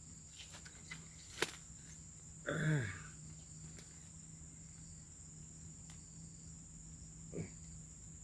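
Crickets or other insects trilling steadily in a high, even tone. A short, loud sound falling in pitch comes about two and a half seconds in, and a sharp click a little before it.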